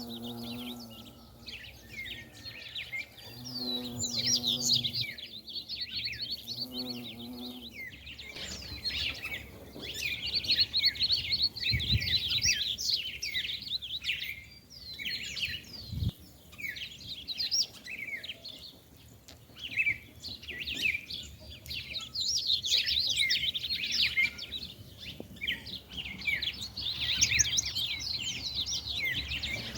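Many small birds chirping and twittering without a break. A bumblebee's low buzz passes close three times in the first eight seconds.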